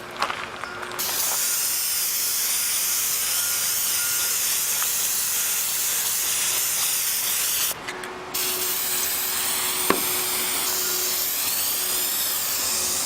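Krylon aerosol spray-paint can hissing as it sprays, in two long bursts with a short break about eight seconds in.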